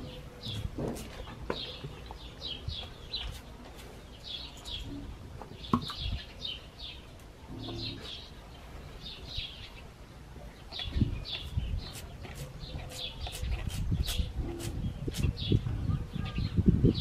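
Small birds chirping, short high calls repeating in quick clusters. Low rumbling thumps grow louder through the second half and are the loudest sound near the end.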